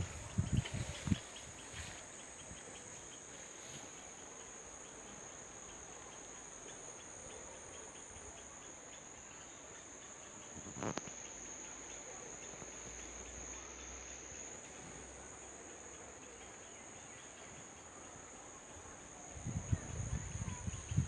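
Steady, high-pitched insect chorus with a faint hiss beneath it. A single sharp click comes about halfway through, and louder low noise rises near the end.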